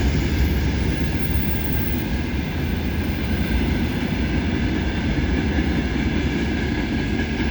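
Freight train rolling past, with a steady, even rumble of wagon wheels on the rails.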